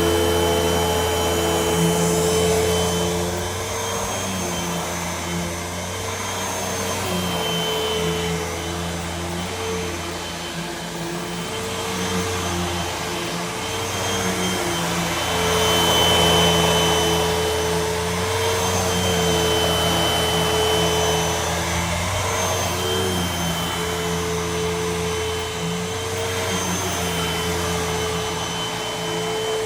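Hoover WindTunnel upright vacuum cleaner running continuously: a steady motor drone with a whine on top, its level and pitch shifting slightly as it is worked.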